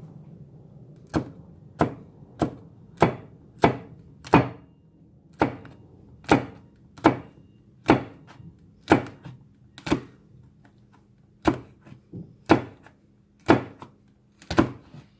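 Kitchen knife chopping chili peppers on a cutting board: a steady run of sharp knocks, about two a second, with a couple of brief pauses.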